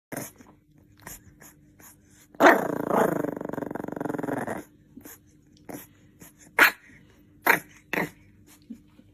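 A dog vocalising: a long, wavering growl about two and a half seconds in, followed by three short, sharp barks near the end.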